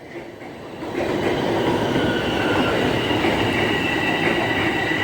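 Toronto subway train running, its noise swelling about a second in and then holding steady, with a high-pitched whine over it.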